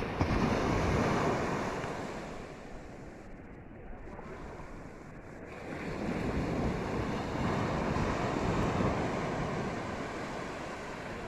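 Ocean waves washing onto the shore, swelling at the start and again from about six seconds in, with wind rumbling on the microphone.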